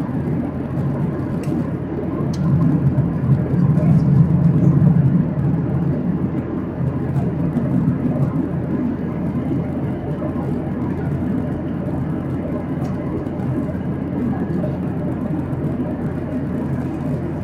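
Steady low rumble of a Boeing 737-800's cabin in flight, the noise of its CFM56 engines and the airflow, heard from a seat behind the wing. It swells a little a few seconds in, then holds steady.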